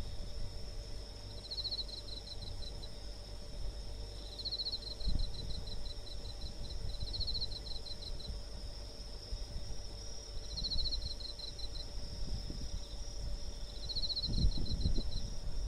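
Insects chirping: a cricket-like phrase, a quick trill slowing into separate pulses, repeats about five times over a steady high-pitched insect trill. A low rumble runs underneath, with a few thumps near the end.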